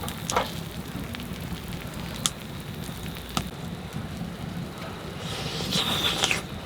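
Wood-burning stove fire crackling, a steady hiss with a few sharp pops. A louder rustling noise lasts about a second, around five seconds in.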